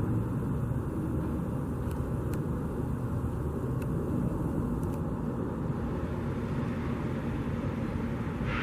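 Steady low rumble of motor-vehicle noise with a faint constant hum and a few faint ticks.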